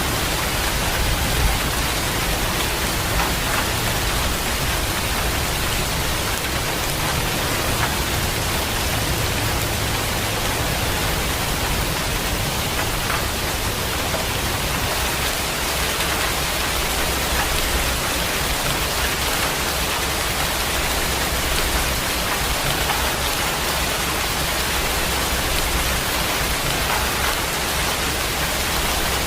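Steady rain falling, an even hiss with no breaks or distinct claps.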